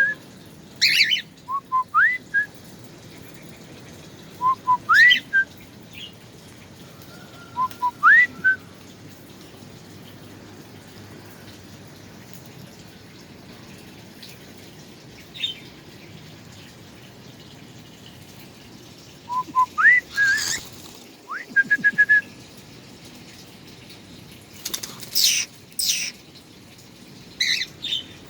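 A bird whistling close by: a couple of short low notes, then a quick upward-sliding whistle, repeated every few seconds. After a quiet spell in the middle the calls return, with a few sharp, high chirps near the end.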